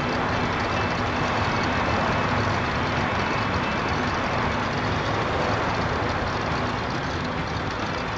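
Cartoon sound effect of a van driving along: a steady engine hum with road rumble.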